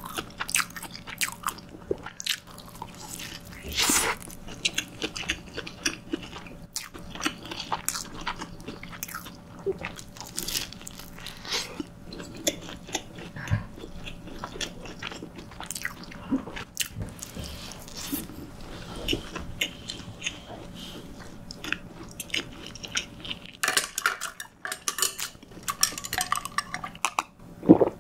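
Close-miked chewing and biting of a homemade dinner-roll hamburger, wet mouth sounds with many irregular small crunches.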